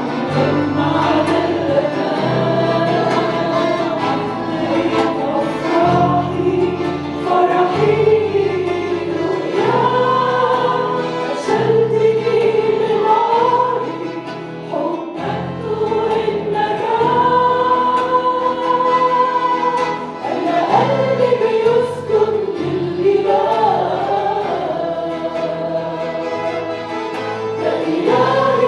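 Several voices singing an Arabic worship hymn together, over an instrumental accompaniment with sustained bass notes.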